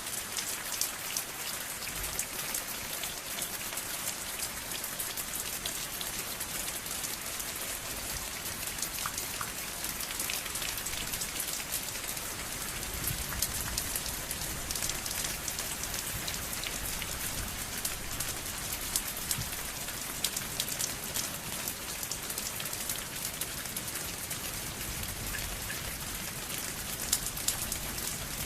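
Steady rain falling, with many individual drops ticking and tapping on a hard surface and now and then a louder drip.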